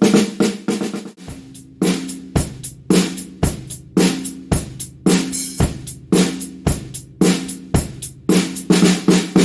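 Drum kit played in a steady beat, a ringing snare drum backbeat about once a second over kick drum and hi-hat, with a busier run of snare hits near the end.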